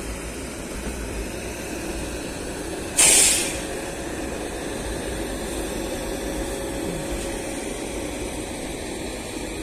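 Steady low rumble of trains standing at a station, with a faint steady hum. About three seconds in comes a sudden loud burst of compressed-air hiss that fades within half a second.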